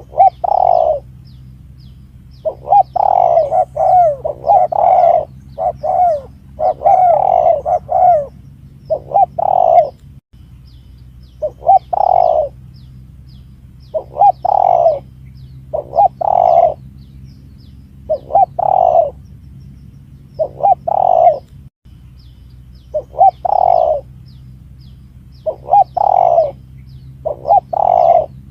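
Spotted dove (tekukur) cooing over and over in short phrases of several notes, a lure call recording played to draw the birds in. Faint high chirps and a steady low hum sit underneath, and the recording cuts out briefly twice.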